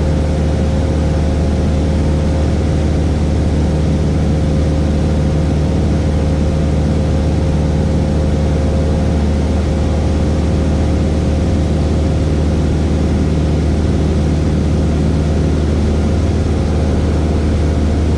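Cessna 172S's four-cylinder Lycoming engine and propeller drone steadily at constant power, heard from inside the cabin.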